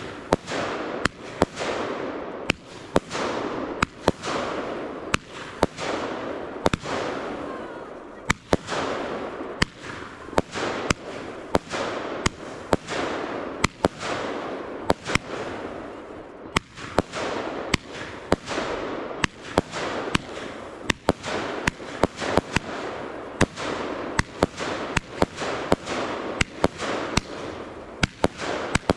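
Fireworks going off in quick succession: sharp bangs about one to three a second, each trailing off in a fading rush of noise.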